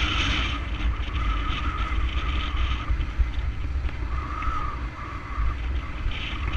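Kawasaki Versys 650 motorcycles on the move, engine and road noise under heavy wind buffeting on the microphone. A faint steady whine comes in twice, about a second in and again about four seconds in.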